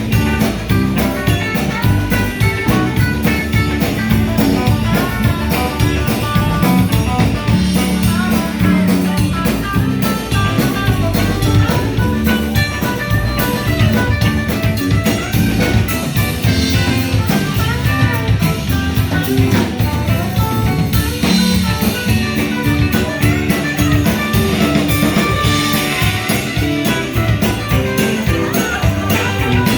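A band playing with guitar, bass and drum kit over a steady beat, an instrumental stretch without vocals.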